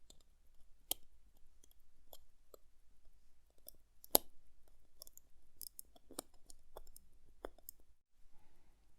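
Light, irregular clicks and taps of small metal watchmaking tools against the parts of an Orient caliber 4694 movement being assembled, with one sharper click about four seconds in.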